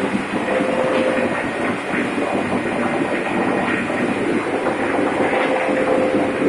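Loud, steady machinery noise of a ship's engine room, with a faint constant hum under a dense roar of running machinery.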